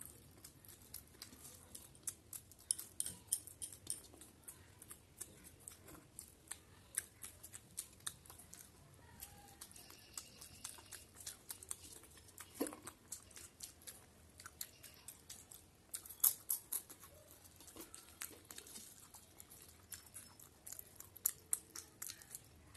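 Quiet, close-up eating sounds: chewing and mouth clicks from rice and egg curry eaten by hand, with many short, irregular clicks scattered throughout.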